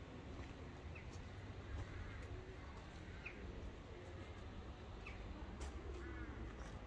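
Faint outdoor ambience of birds: a few short, high chirps about two seconds apart over a low steady rumble.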